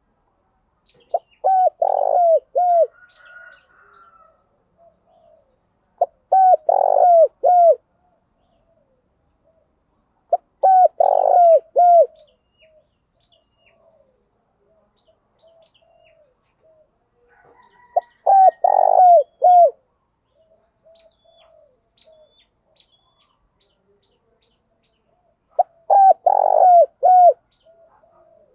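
Spotted dove cooing: five bouts of several short coos each, several seconds apart, with faint softer coos between the bouts.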